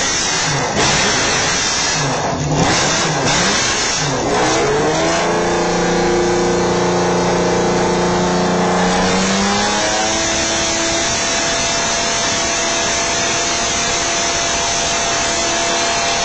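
Supercar engine revving: a wavering few seconds of blips, then revs climb and are held steady for about five seconds before dropping, and a steady note carries on after.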